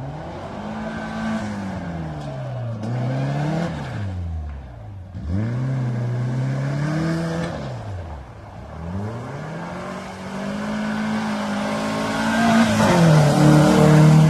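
Race car engine revving up and backing off in three long rising-and-falling sweeps, the third climbing to its loudest, steadier high note near the end.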